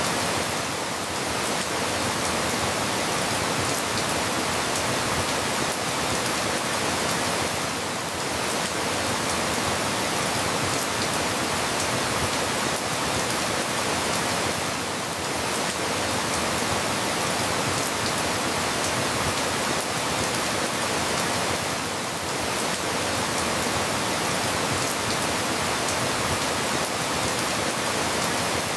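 Steady rain falling, heard as an even hiss, with a slight lull roughly every seven seconds.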